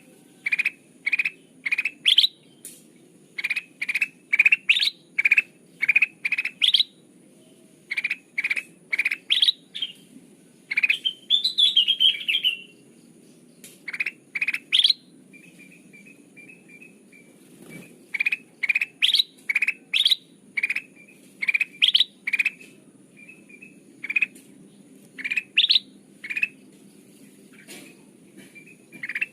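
Kutilang emas, a bulbul, calling: runs of short, clear, rising notes at about two a second, broken by pauses, with a brief jumbled warble about eleven seconds in and softer rapid notes later. This is a bird-lure call.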